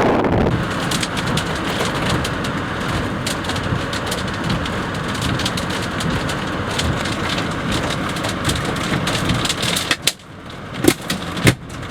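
Rain pattering hard on a vehicle: many sharp drop taps over a steady rushing noise. It drops away about ten seconds in, and a couple of louder knocks follow.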